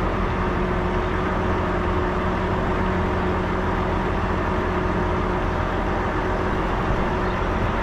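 Semi truck's diesel engine idling steadily, a constant low hum with a couple of steady tones.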